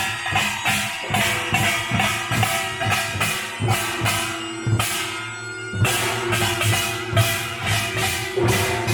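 Korean pungmul (nongak) folk band playing: drums struck in a quick, steady rhythm over ringing metal gongs. The low drum strokes drop out for about a second midway, then come back in.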